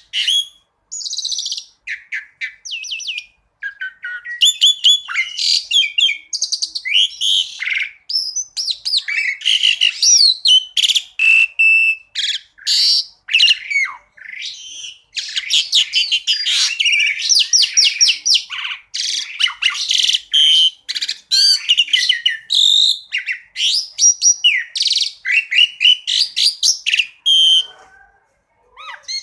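Asian pied starling (jalak suren) singing a long, varied song of fast chirps, whistles and trills, with short pauses between phrases.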